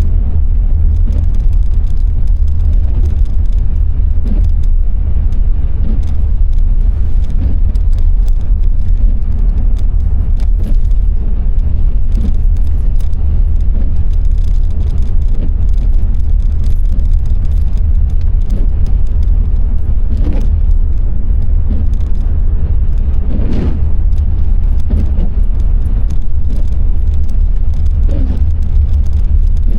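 Car driving on a wet road: a steady low road and engine rumble with a light hiss of spray from the tyres, and a few brief swishes late on.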